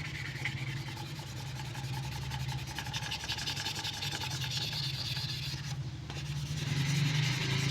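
Sanding an old PC case: a continuous rubbing rasp over a steady low hum, growing louder near the end.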